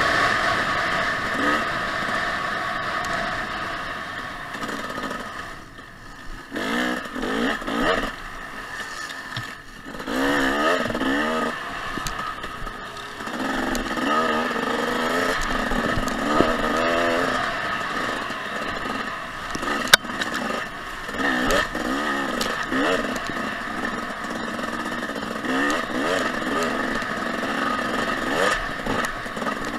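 Dirt bike engine running along a trail, its pitch rising and falling again and again as the throttle is opened and closed. There is a sharp knock about twenty seconds in.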